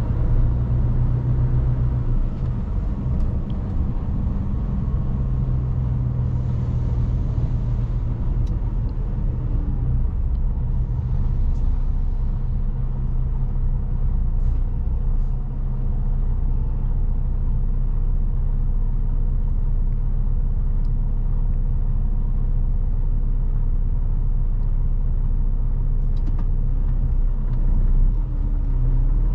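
Mercedes Actros truck's diesel engine running while driving, with road noise, heard from inside the cab: a steady low drone that eases a little about a third of the way in.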